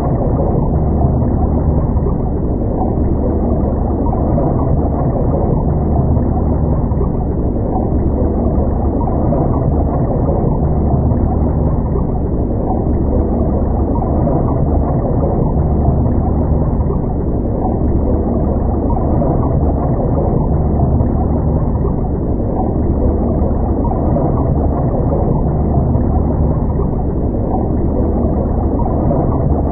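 Muffled underwater sound picked up through a camera housing: a steady low rumble with a constant deep hum and no breaks.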